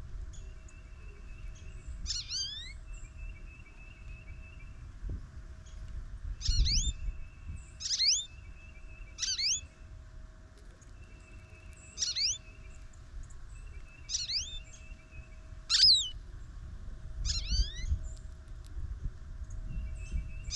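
American goldfinch calling: short, bright, curving notes repeated every second or two.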